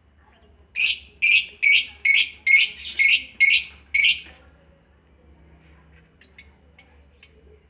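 Lovebirds calling: a run of eight loud, harsh calls at about two a second, then after a pause a string of shorter, fainter, sharp chirps near the end.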